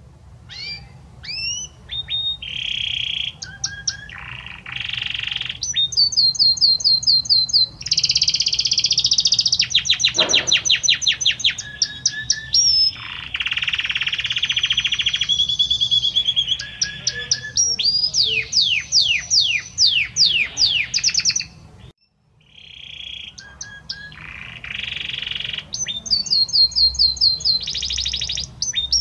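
Male Belgian canary singing to his female: a long song of rapid trills, repeated chirps and sweeping whistled notes. It breaks off for about a second roughly three-quarters of the way through, then starts again.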